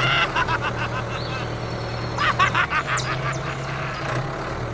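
A steady low hum, like a small motor running, with two short bursts of rapid honking calls: one at the start and one just past the middle.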